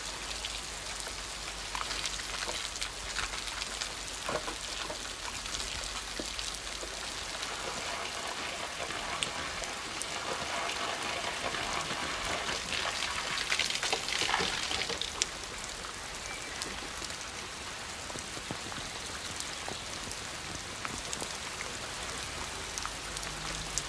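Steady rain falling, with scattered drops ticking on hard surfaces close by. The rain swells louder and hissier for a few seconds around the middle, then settles back.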